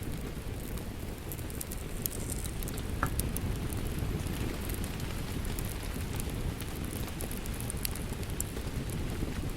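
Steady rain as a dense even rush, with a fireplace's wood fire crackling over it in scattered small sharp pops.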